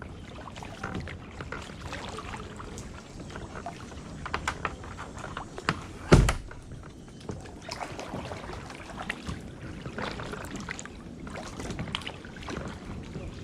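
Kayak paddling: paddle strokes splashing and dripping in the water with small knocks and clicks, and one loud thump about six seconds in.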